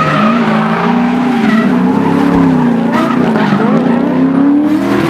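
Drift cars sliding in tandem, one of them an R33 Skyline: engines held at high revs, their pitch wavering up and down with throttle, over tyre skidding and squeal.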